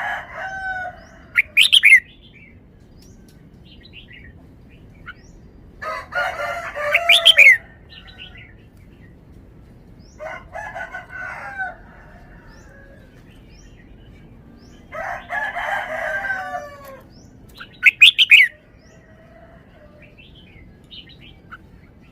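Red-whiskered bulbul singing: short phrases of warbled, gliding whistled notes repeated every few seconds, some ending in a few sharp, loud, high notes.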